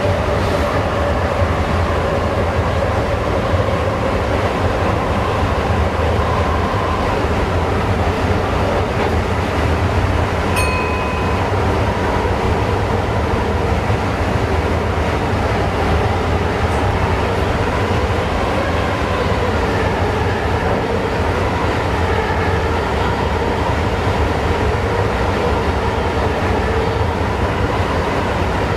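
Passenger train running steadily on the rails, heard from the driver's cab: a continuous low rumble of wheels and running gear with a faint whine. About ten seconds in there is one short high tone.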